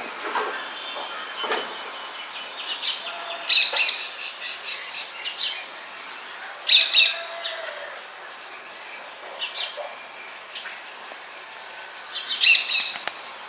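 Birds chirping and calling in short bursts, three louder clusters of rapid chirps standing out, over a steady background hiss of outdoor noise.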